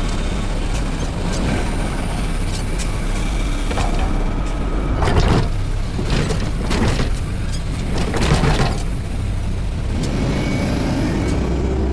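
Front-load garbage truck running with a steady low rumble, broken by several short noisy bursts about five, seven and eight and a half seconds in.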